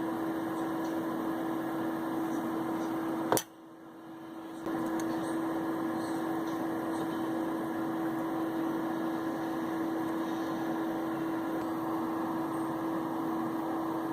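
Steady hum of a small motor running, with one steady tone over a hiss. It breaks off with a click about three and a half seconds in, stays low for just over a second, then returns unchanged.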